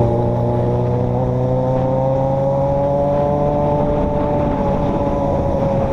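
Motor vehicle engine running steadily at a constant speed, its pitch rising slightly and then holding.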